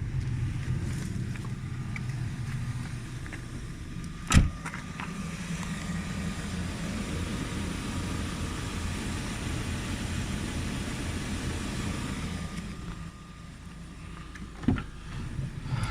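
Lada Vesta 1.8's engine and road noise heard from inside the cabin while driving, a steady rumble with no clutch-spring rattle. A sharp click about four seconds in and another near the end.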